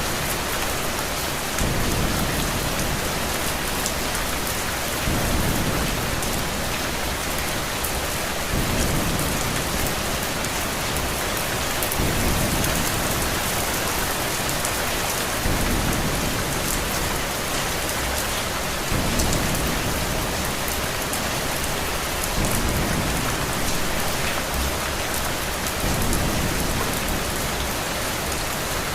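Steady rain. A low rumble swells about every three and a half seconds, evenly spaced, like a looped thunder bed.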